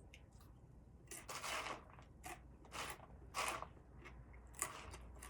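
A person biting and chewing crunchy food, about five separate crunches in the space of a few seconds.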